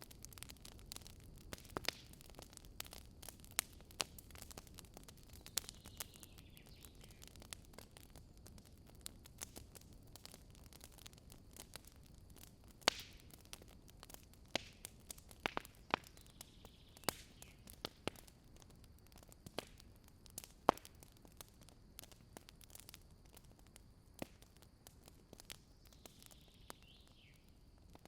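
Campfire of dry wood crackling: irregular sharp pops and snaps over a soft steady hiss. There are a few faint falling whistles.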